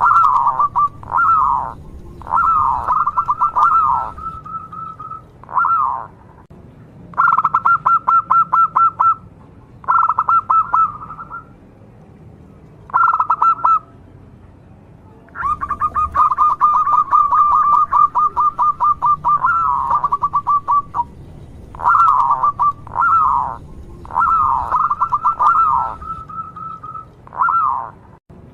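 Zebra dove (perkutut) cooing song: a dozen or so phrases of rapid, repeated notes with short pauses between them, and one longer run of about five seconds in the middle. A faint low hum lies underneath.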